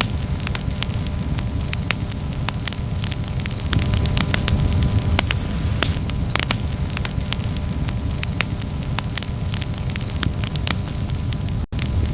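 Wood campfire crackling, with irregular sharp pops and snaps over a steady low rush of flame. The sound drops out for an instant near the end.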